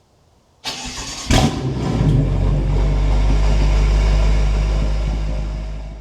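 BMW F10 M5 Competition's twin-turbo 4.4-litre V8 starting through an Akrapovic exhaust: it cranks in under a second in, fires with a sharp flare, then settles into a loud, deep idle that fades out near the end.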